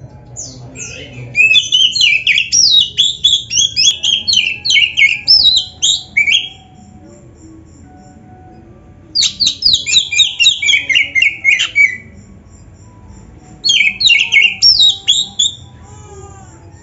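Black-breasted Oriental magpie-robin (kacer) singing in three bursts of rapid, varied high whistles and chirps, the first the longest, with pauses of a few seconds between them.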